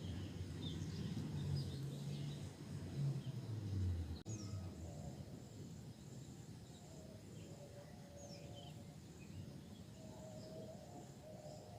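Outdoor background sound with scattered short, high bird chirps. A low hum runs for the first four seconds, drops in pitch and stops abruptly at a cut; after that the background is quieter.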